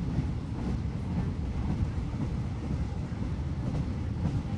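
Steady low rumble of a moving passenger train, its wheels running on the rails, heard from inside the carriage.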